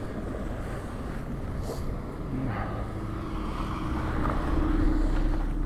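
Wind buffeting the microphone with a low rumble. About halfway through, a vehicle engine joins in with a steady drone.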